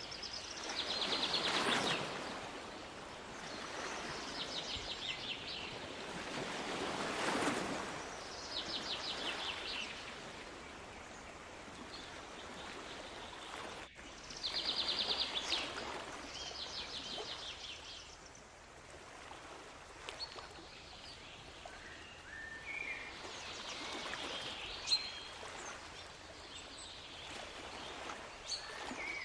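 Surf washing in and out, with waves swelling every few seconds, while a small songbird sings repeated fast high trills of about a second each and then scattered chirps.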